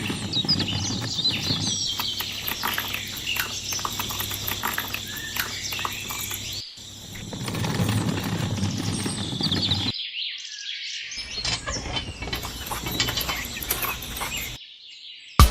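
Small birds chirping outdoors over a steady low hum, with scattered light clicks and knocks. The sound cuts off abruptly and starts again a few times.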